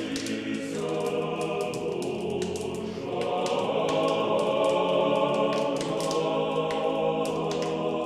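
A choir singing slow, sustained chords in church-chant style.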